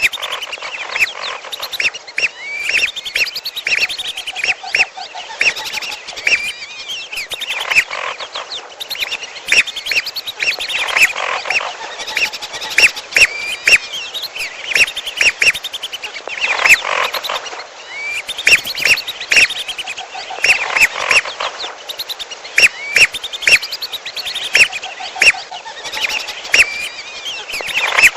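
Bird-lure recording of whistling ducks (belibis merah) mixed with another bird's calls: dense, overlapping high whistles with quick pitch glides and sharp clicky notes, repeating over and over.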